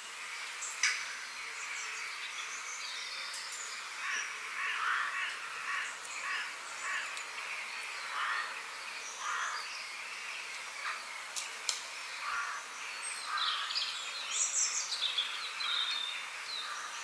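Several wild birds calling and singing in short, varied phrases over a steady background hiss, with a couple of brief sharp clicks.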